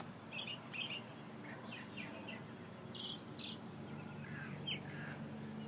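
Small birds chirping, short high calls scattered throughout, over a faint steady low hum.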